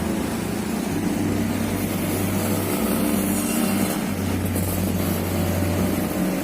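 Road traffic: vehicle engines running steadily, with a continuous low hum.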